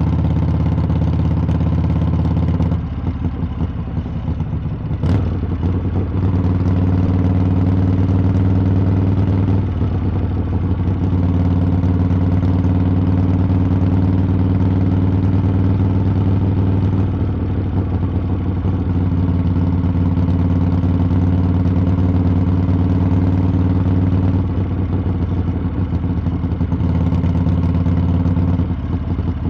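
Harley-Davidson V-twin exhaust as the motorcycle is ridden at a steady cruise. The throttle eases off a few seconds in and again near the end, lowering the level. A single sharp click comes about five seconds in.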